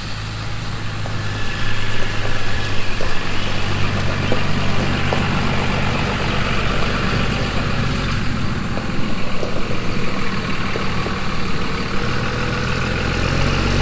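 A truck's engine running steadily as the truck approaches, getting louder near the end.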